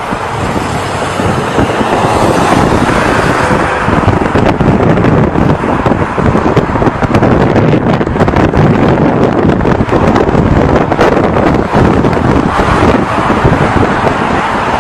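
Loud, steady road-traffic noise from passing vehicles, with wind buffeting the microphone.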